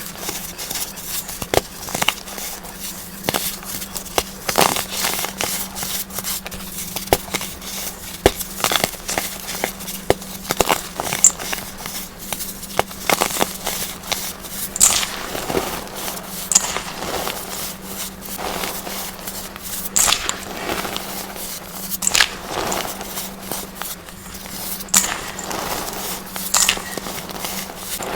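Crunchy, powdery clumps of baking soda being crushed and crumbled: a dense, irregular run of crisp crackles and crunches.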